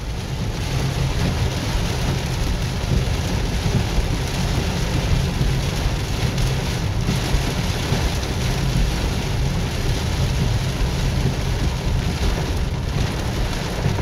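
Heavy rain pounding on a car's roof and windshield, heard from inside the cabin: a steady, dense rush with a low rumble underneath.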